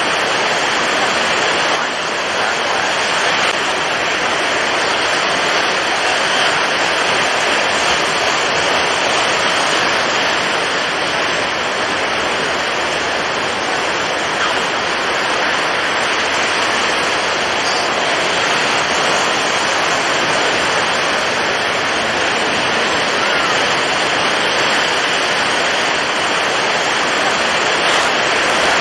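Storm at sea: heavy waves and strong wind blending into a steady, dense rush of noise with no separate events.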